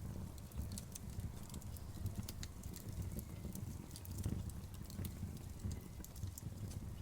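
Outdoor bonfire crackling: irregular sharp pops and snaps of burning wood over a low, steady rumble of the flames.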